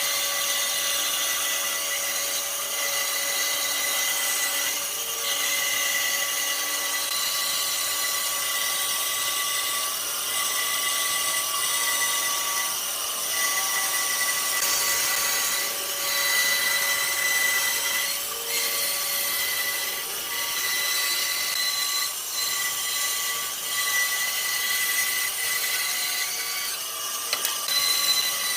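A high-speed power tool running steadily on wood, with a high whine that holds its pitch throughout.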